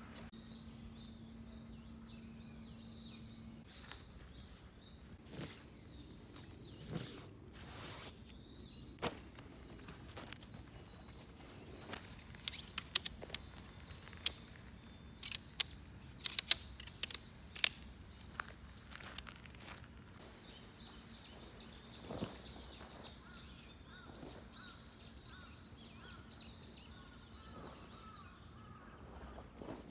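Quiet outdoor ambience with a faint, steady high chirring of insects. A cluster of sharp clicks and knocks comes in the middle.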